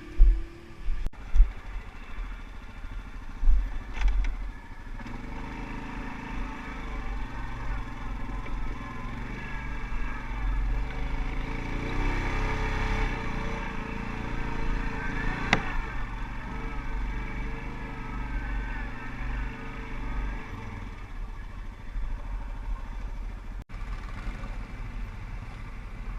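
ATV engine running under changing throttle as the quad crawls over rough ground, with a few thumps in the first few seconds.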